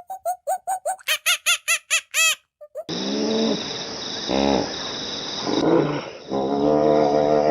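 Animal calls: a fast run of short, squeaky chirping calls, about eight a second, then a sudden change to a noisier recording in which a few longer, lower calls sound, the last one running for most of a second near the end.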